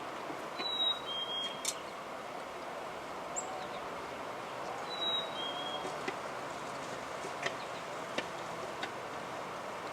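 Chickadee singing its clear two-note whistled song, a higher note then a slightly lower one, twice about four seconds apart, over a steady background hiss with a few faint clicks.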